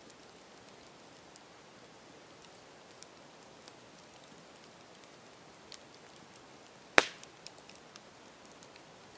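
Campfire burning: a steady soft hiss with scattered small crackles, and one sharp loud pop about seven seconds in, followed by a quick run of smaller snaps.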